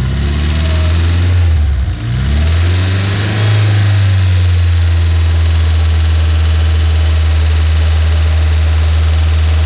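Off-road vehicle engine revving up and dropping back twice in the first few seconds, then held running steadily at raised revs.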